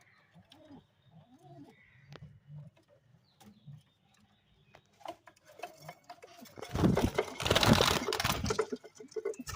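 Pigeons cooing softly in low, repeated calls. A loud rustling noise about two seconds long comes past the middle.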